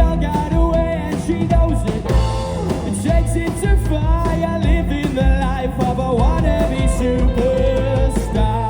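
Live rock band playing loud: drum kit with a steady kick beat, electric guitars and bass, with singing over the top.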